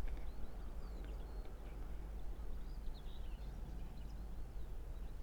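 Birds chirping on and off over a steady low rumble of outdoor background noise.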